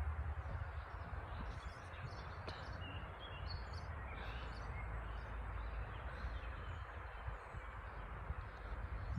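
Small birds chirping in short high notes, mostly in the first half, over a steady low rumble of outdoor background noise.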